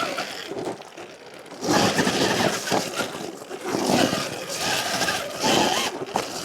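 Sur-Ron Ultra Bee electric dirt bike climbing a loose quarry hill: tyres scrabbling on rock and an electric motor whine, coming in three loud surges as the throttle is worked.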